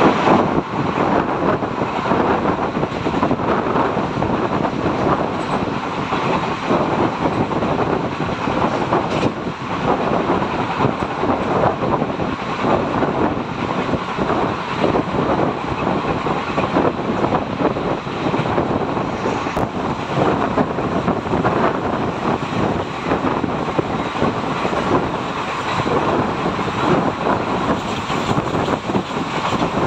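Indian Railways passenger coach running at speed: the steady noise of its steel wheels on the rails, heard through an open coach window.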